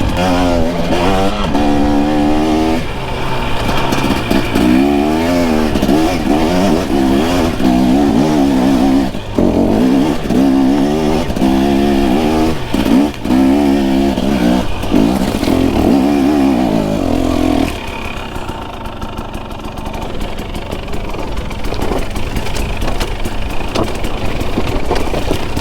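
Dirt bike engine revved hard on a rocky climb, its pitch rising and falling rapidly with the throttle. About 17 seconds in it drops to a lower, steadier running.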